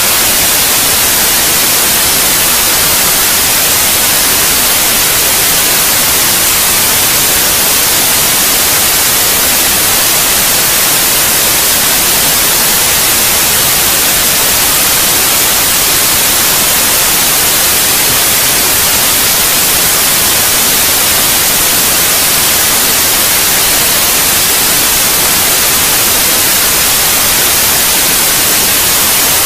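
Steady white noise: an even, hissing static, bright and airy in the highs, with no change in level or pattern.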